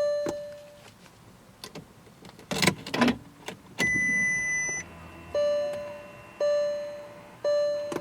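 A Volkswagen Phaeton's dashboard warning chimes: a fading chime, a few clunks about two and a half seconds in, a steady high beep lasting about a second, then three more chimes about a second apart.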